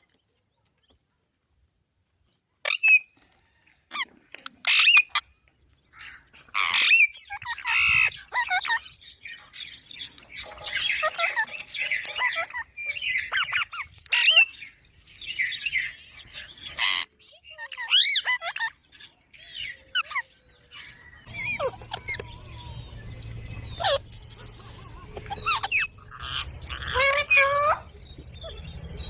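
Pet green parrot squawking and chirping in a long string of short, shrill calls, starting about three seconds in.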